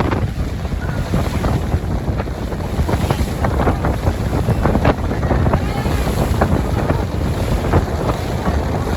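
Wind buffeting the microphone on a moving boat: a steady low rumble with gusty crackling.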